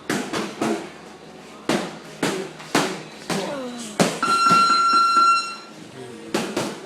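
Punches landing on a bag or pads, a string of sharp smacks in uneven flurries. About four seconds in, a steady electronic beep sounds for about a second and a half.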